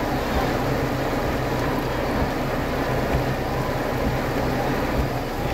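Heavy monsoon rain falling steadily, a dense unbroken hiss over a low rumble.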